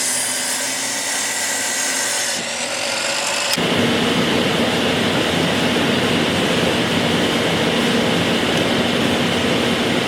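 Woodworking power tools running on wood. About three and a half seconds in, the sound switches abruptly to a louder, fuller machine noise with a steady low hum.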